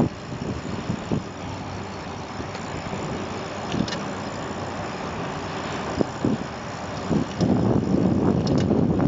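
Steady rushing noise of riding a bicycle, with wind and road noise on the handheld camera's microphone and a few small clicks; it grows louder and rougher about seven seconds in.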